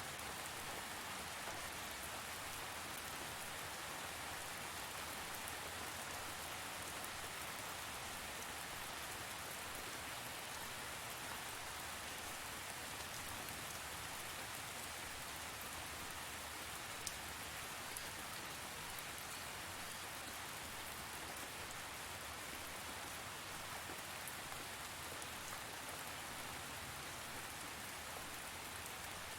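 Steady rain falling and pattering on a surface, an even hiss with a few sharper drops.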